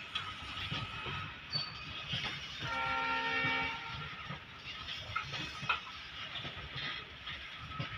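Loaded open coal wagons of a goods train rolling past, wheels clattering and clicking over the rail joints. A train horn sounds once for about a second near the middle.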